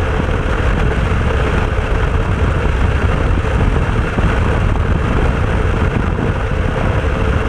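Aprilia RS250's two-stroke V-twin running at steady revs, heard through heavy wind rumble on the microphone.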